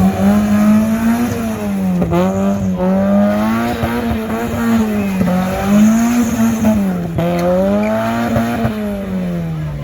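A car engine held at high revs, its pitch rising and falling in smooth waves about once a second.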